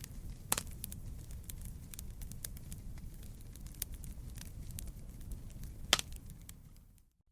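Campfire of burning wood crackling: a low steady rumble under a dense run of small snaps, with two louder pops about half a second in and about six seconds in. The sound fades out just before the end.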